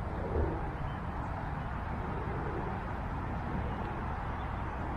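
Steady outdoor background noise with a low rumble, like distant traffic.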